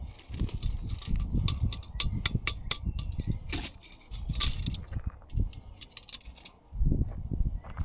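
A rapid, irregular run of sharp clicks and light clinks, thick for most of the stretch and thinning near the end, mixed with dull low thuds.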